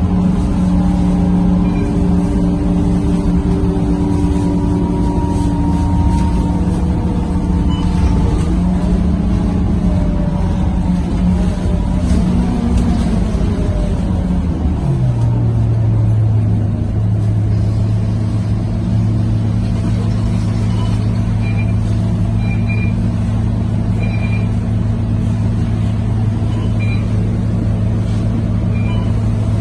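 Scania K230UB city bus's diesel engine pulling at full throttle. About halfway through, its note changes and it settles into a steadier, deeper drone.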